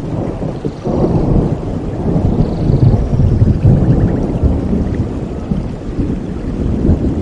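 Thunder rolling in a rainstorm: a deep rumble swells about a second in and rolls on for several seconds over the steady hiss of rain.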